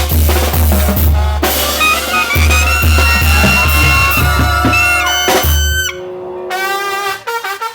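Mexican banda brass band playing, with drums, low bass notes and held horn lines. About six seconds in, the bass and drums drop out and the music gets quieter, leaving the horns alone, which then play quicker notes.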